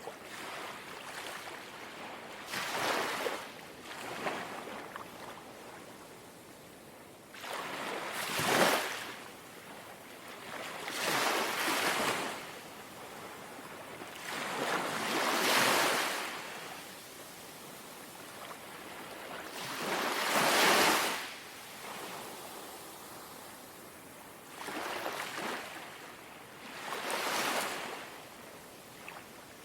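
Small, gentle sea waves lapping, about eight soft surges of wash a few seconds apart, each swelling and fading within a second or two over a quieter steady hiss of water.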